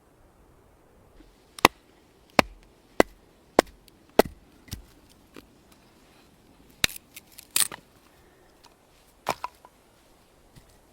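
Wood being chopped: five sharp strikes in a steady rhythm about every half second, then a few more scattered knocks and cracks.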